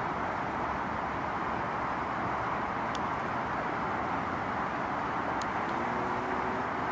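Small handheld battery fan running, a steady whoosh of moving air with a few faint ticks.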